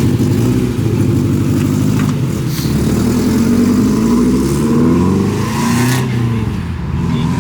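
Car engine running and revving, its pitch climbing over a few seconds, dropping briefly near the end, then picking up again.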